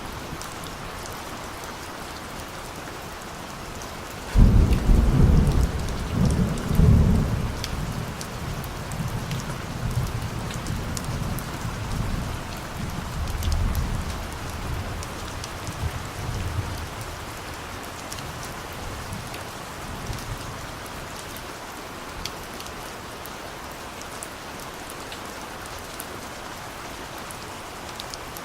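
Steady rain hiss with a thunderclap about four seconds in, rumbling low and rolling off over the next ten seconds or so.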